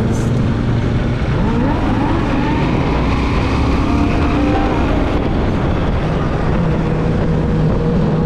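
Motorcycle engine running on the road under a constant rush of noise, with the pitch rising as it accelerates about a second in.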